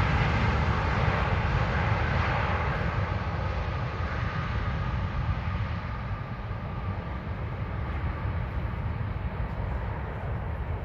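Jet airliner's engine noise on its landing roll just after touchdown: a broad rushing rumble with a faint whine, slowly fading.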